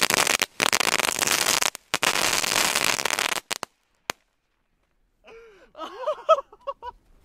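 A pack of Funke Geysir Kaliber A fireworks lit all together, going off in a dense, rapid run of bangs and crackling that stops suddenly about three and a half seconds in. One last pop comes about four seconds in, and a man's exclaiming voice follows near the end.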